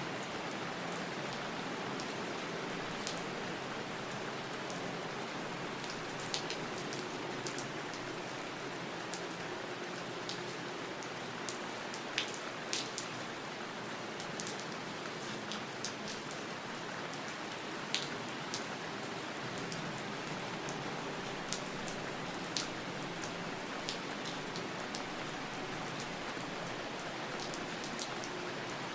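Steady rain falling, with occasional louder single drops ticking through it.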